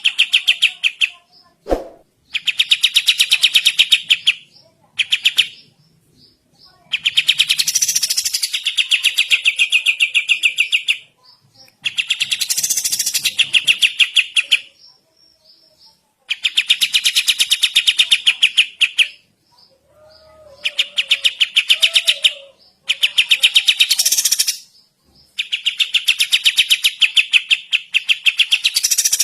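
A kapas tembak songbird singing loudly in long bouts of very fast, rapid-fire chattering notes, each bout a few seconds long, with short pauses between. There is a single sharp knock about two seconds in.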